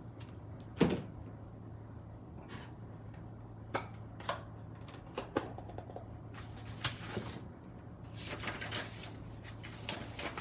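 Crafting supplies handled on a work table: a string of small clicks and knocks, with one sharper knock about a second in and a soft rustle near the end.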